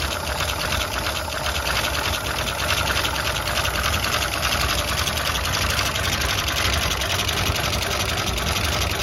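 1935 Pierce-Arrow flathead V-12 engine running steadily with a fast, even mechanical clatter, just after its first start in over thirty years.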